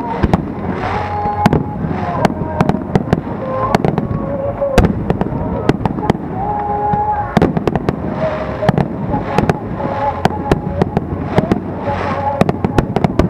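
Aerial fireworks bursting in quick succession: many sharp bangs and crackles over a constant rumble.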